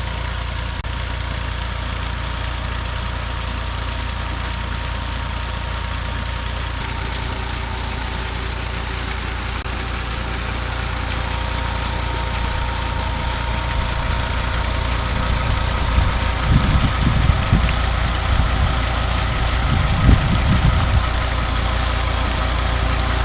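Tractor engine running steadily under load, driving a tube well pump. It gets slightly louder from about halfway, with a few irregular low bumps in the last seconds.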